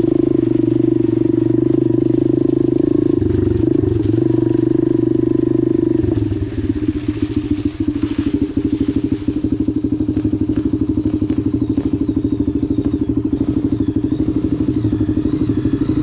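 Dirt bike engine running at a steady speed. About six seconds in the note drops and it settles into a slower, evenly pulsing low-rev run.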